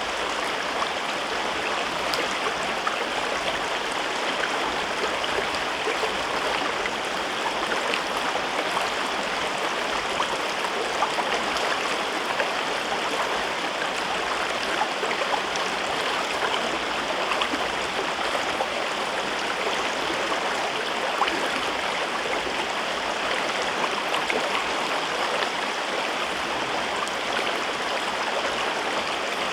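River water flowing over rocks in a gorge, a steady rushing and babbling with small splashes.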